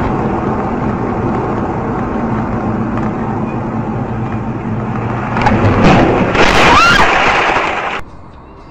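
Steady car road and engine noise, then about five and a half seconds in a louder crash: a burst of noise with a brief squeal, cutting off abruptly about eight seconds in.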